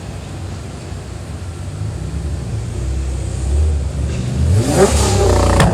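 Nissan GT-R's twin-turbo V6 running low and steady, then revved hard with a rising note about four seconds in, ending in a sharp bang from the exhaust.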